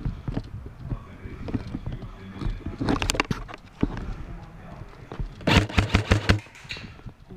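Airsoft electric gun firing two short full-auto bursts of rapid clicks, the first about three seconds in and a longer one a little after five seconds.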